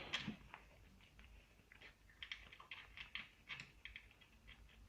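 Faint, irregular metal clicks and taps of a hand spanner working the bolts on an outboard motor, low against near silence.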